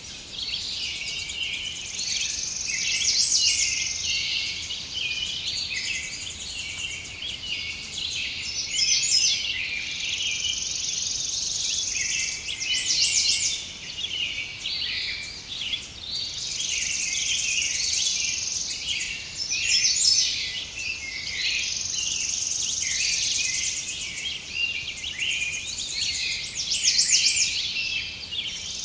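A dense chorus of many birds chirping and singing over one another, with a high, steady insect-like trill that comes and goes.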